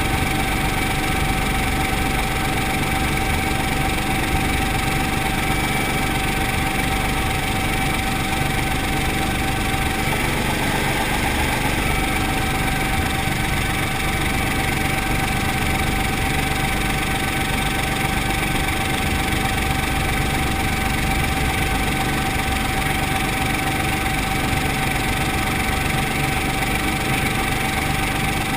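Brantly B2B helicopter's piston engine and rotor running steadily, with a constant whine over the engine drone.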